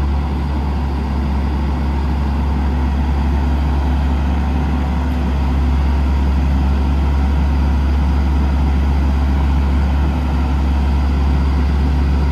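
Paccar PX-6 6.7-litre diesel running at a slightly raised idle with the PTO engaged, driving the crane's hydraulic pump: a steady low drone that gets a little louder about five and a half seconds in.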